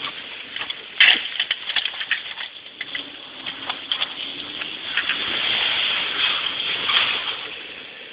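Pickup truck spinning donuts in snow: tyres churning through the snow with a steady hiss, the engine faintly revving up and down underneath. A burst of sharp clicks and knocks comes about a second in.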